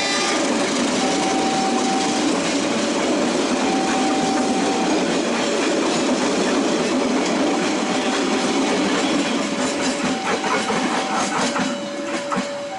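A train running past with a steady rumble of wheels on rail, and a row of sharp clicks from the wheels crossing rail joints near the end. An electronic two-note tone alternates high and low every second or so throughout.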